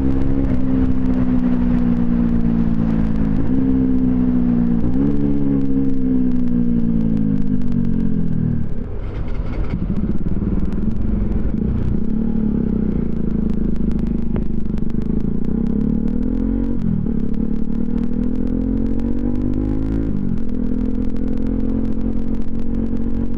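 Bajaj Pulsar NS200's single-cylinder engine running through an aftermarket twin-pipe exhaust while ridden: the note rises, drops sharply and rises again several times as it changes gear, with a steadier stretch partway through.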